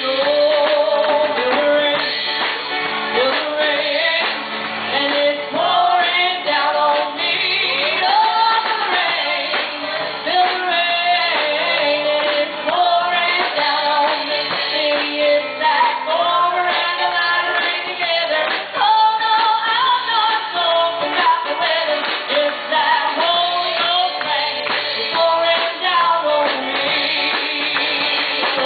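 Woman singing a gospel song over instrumental backing.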